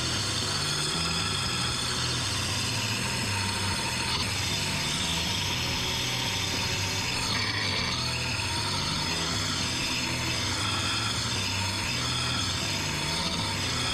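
Power-driven sanding wheel grinding the edge of a steel lawn mower blade to sharpen it. A steady abrasive whir whose motor pitch wavers up and down as the wheel is worked along the blade.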